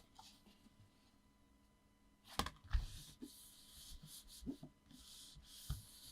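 Paper and card being handled on a work surface: a couple of sharp taps about two and a half seconds in, then soft rustling and sliding of paper with a few light knocks.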